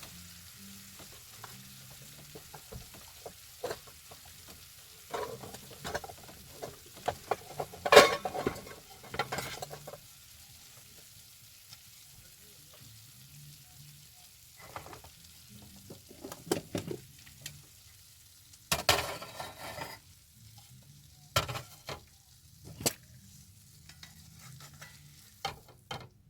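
A utensil stirring and scraping through curry chicken in a cream sauce in a pan, in irregular strokes with a few louder knocks against the pan, the loudest about eight seconds in. A faint sizzle runs underneath.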